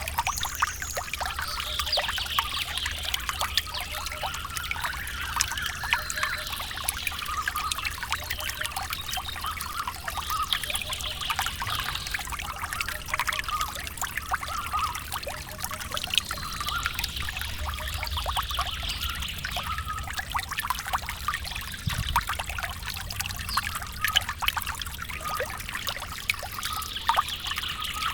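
Water trickling steadily with many small splashes, with birds chirping now and then.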